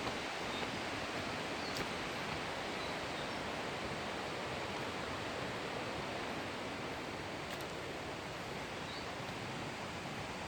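Steady rushing of a large waterfall, an even unbroken roar of falling water, with a few faint short high sounds over it.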